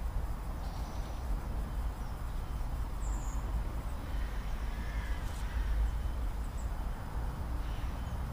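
Steady low rumble of outdoor background, with a few faint short bird calls, one of them crow-like.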